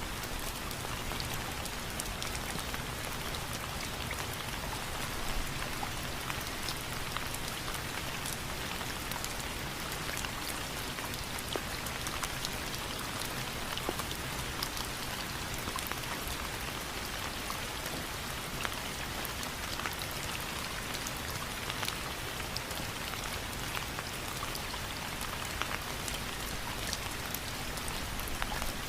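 Steady rain falling: an even hiss with many individual drops ticking sharply on a surface.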